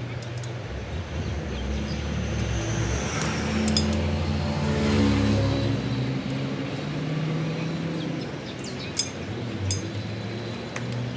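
An engine running, its pitch rising to a louder peak about halfway through and then settling, with a couple of sharp clicks near the end.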